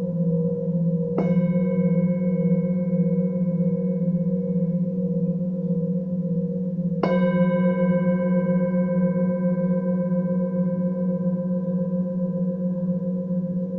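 Singing bowls ringing: a low pulsing tone holds throughout, and a bowl is struck twice, about a second in and again about seven seconds in, each strike ringing out slowly.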